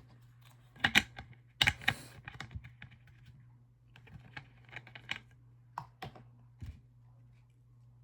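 A run of irregular sharp clicks and small crackles, loudest in a cluster about one to two seconds in, then scattered softer ones, over a steady low hum.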